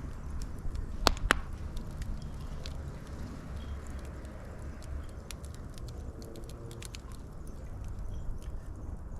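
Wood fire crackling, with a steady low rumble and scattered sharp pops, two loud pops about a second in.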